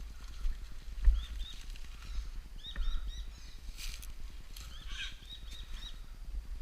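Birds chirping in quick runs of short, hooked two- to four-note calls over a low, uneven rumble.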